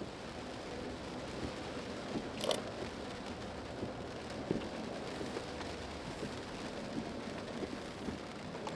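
Rain falling on a car, heard from inside the cabin: a steady hiss with scattered small taps of drops.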